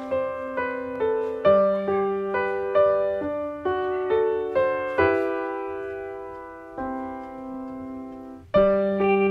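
Background piano music: a gentle melody of single struck notes about every half second, easing into long chords that fade out slowly in the middle, then a loud new chord shortly before the end.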